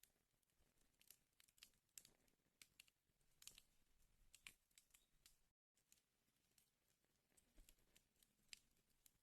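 Wood fire crackling, very faint: irregular small pops and snaps over a soft hiss. The sound cuts out completely for a split second about five and a half seconds in.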